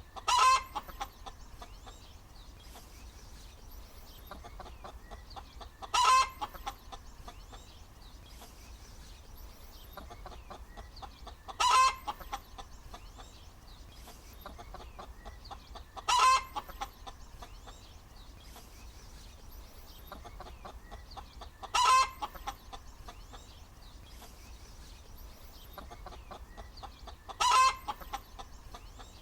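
Hen cackling: six short, loud calls, one about every five and a half seconds, with soft clucking in between.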